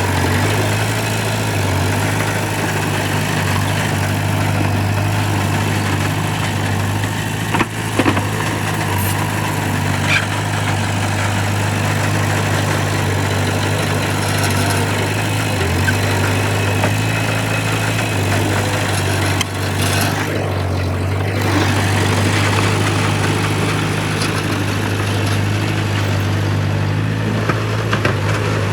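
Heavy diesel earthmoving machinery running steadily with a constant low hum. A few short knocks or clanks come about 8 seconds in, again at about 10 seconds, and near 20 seconds.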